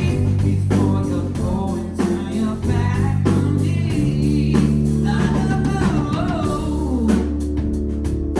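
Live band playing a pop-rock song with guitar and bass under a steady beat, with a voice singing in the middle stretch.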